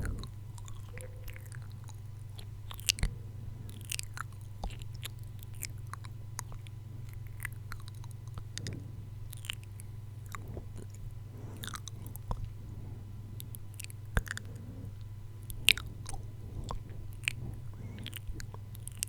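Close-miked ASMR mouth sounds: irregular wet clicks and smacks, a few of them louder, over a steady low hum.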